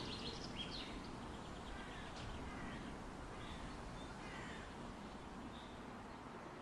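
A few faint, scattered bird calls over a steady low background hiss.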